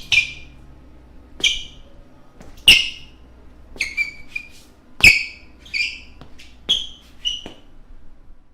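Basketball shoes squeaking on a hardwood court: about ten short, sharp, high-pitched squeaks at irregular intervals, several with a dull thud of a footfall beneath them.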